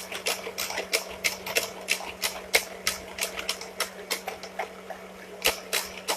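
Electric hand mixer running steadily as it beats cake batter, with a constant motor hum and sharp clacks about three times a second.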